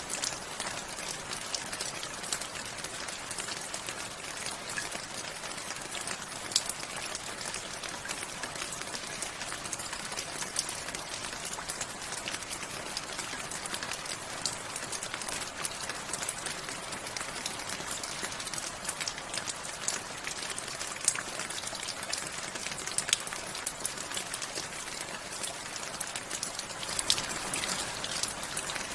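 Steady rainfall, a continuous hiss with many individual drops ticking sharply on a hard surface close by.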